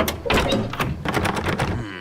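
A rapid series of knocks and clicks.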